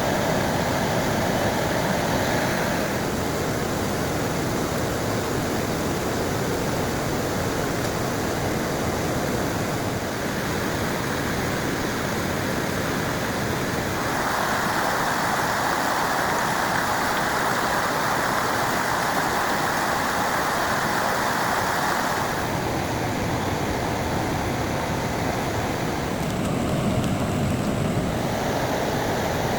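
Heavy rain falling steadily, a dense hiss that shifts in tone every few seconds.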